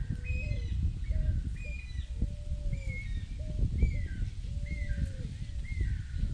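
Birds calling. There is a run of short high chirps about twice a second, mixed with lower, longer calls that bend downward, over a steady low rumble.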